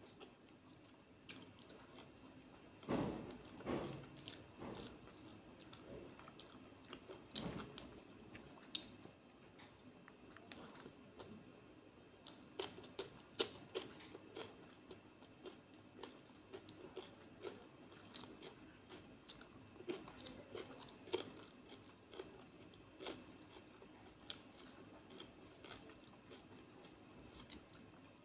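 Close-up chewing and crunching of fried fish and rice, with irregular small clicks and mouth smacks. A few louder crunches come about three and seven seconds in.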